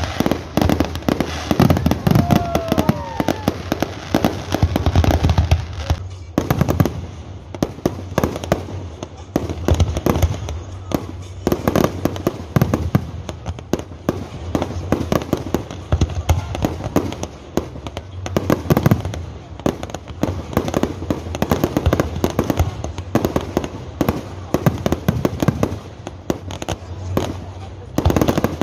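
Aerial fireworks display: a dense, continuous barrage of overlapping bangs and crackles, easing briefly about six seconds in before building again.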